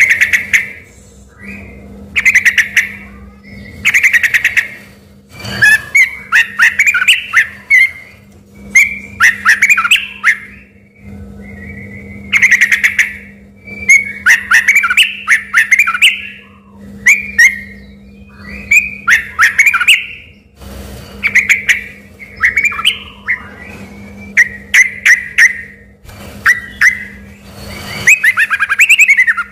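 Yellow-vented bulbul (trucuk) singing loudly in repeated short phrases with brief pauses, a vigorous song that sounds like a white-rumped shama's. A steady low hum runs underneath.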